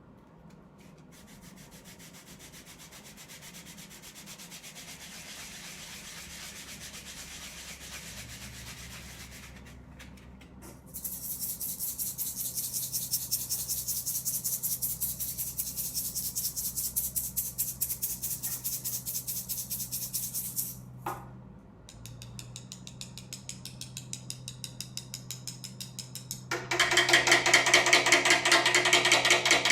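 A rainstorm imitated on hand percussion: fast, even scraping, shaking and tapping strokes that change in stages and are loudest near the end.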